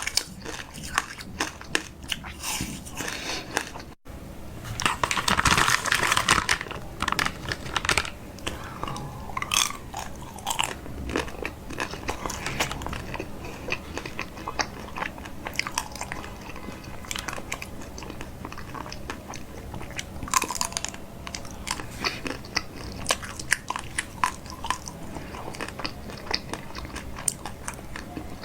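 Close-up eating sounds: biting and chewing food with crisp, crunchy clicks throughout. A louder rushing, noisy stretch comes about five seconds in and lasts a second or so.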